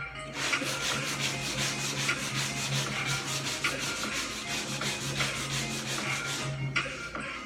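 Hand sanding on a car body panel: sandpaper rubbed back and forth in quick, even strokes, about three to four a second.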